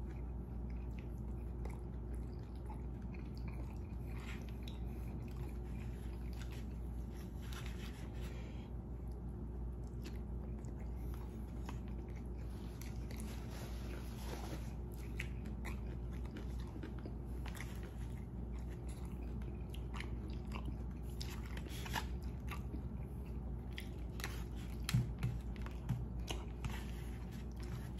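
Close-up chewing of a mouthful of brisket stir-fry and rice, with scattered small mouth clicks, over a steady low hum. A few louder taps come near the end.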